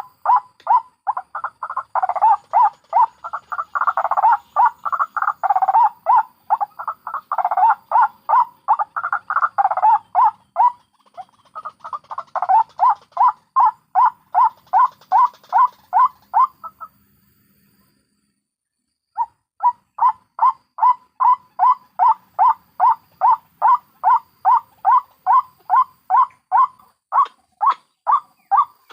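White-breasted waterhens calling: a fast, even run of repeated short notes, about three a second, with two or more birds overlapping in the first ten seconds. The calling stops for about two seconds a little past halfway, then resumes as a single steady series.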